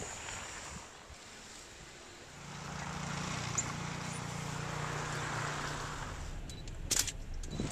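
A motor running steadily with a low hum, starting a couple of seconds in and lasting about four seconds. It is followed by a few sharp knocks near the end.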